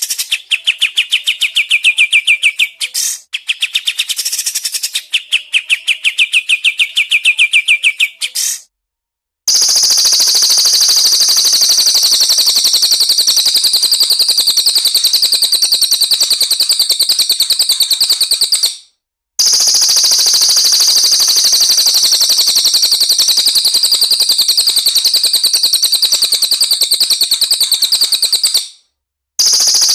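Caged songbird rapid-fire 'tembakan' calls: a fast run of repeated chirps, then a very fast, high, steady trill repeated in long stretches with abrupt cut-offs between them.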